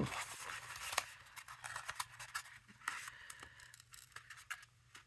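Light rustling and scattered small clicks and crinkles of cardstock being handled and pressed along its fold lines.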